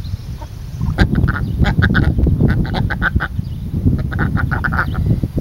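Ducks quacking in rapid runs of short calls, in two bouts, over a low rumble.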